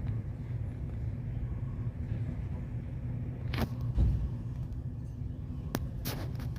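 Steady low engine rumble with a faint constant hum. A few sharp clicks and one loud low knock about four seconds in break through it.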